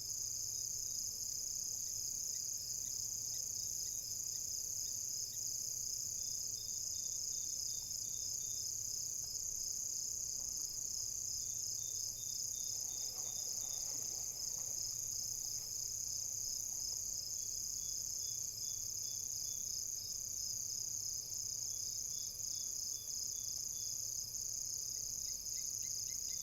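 Night chorus of crickets: a steady, high, pulsing trill, with fainter intermittent chirps from other insects.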